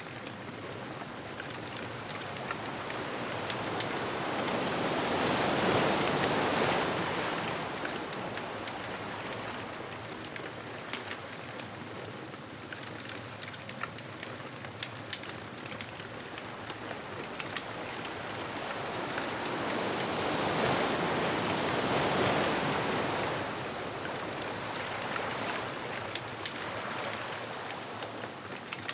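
Ocean waves washing onto a beach, the surf swelling and fading twice about fifteen seconds apart, with fine crackling from a beach bonfire throughout.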